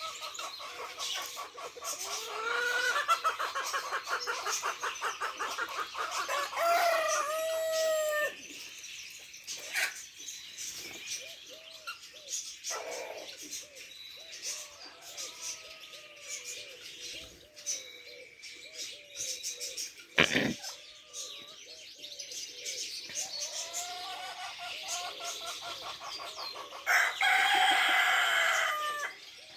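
A rooster crowing twice, a long call near the start and another near the end, with pigeons cooing softly in between. A single sharp knock comes about two-thirds of the way through.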